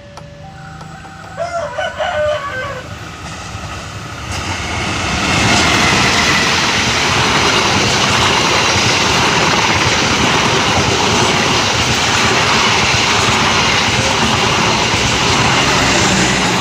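A diesel-hauled train approaching and passing at speed: a low rumble that swells into loud, steady wheel-and-rail noise from about five seconds in. About a second and a half in, a short pitched call, like a rooster crowing, rises briefly over the rumble.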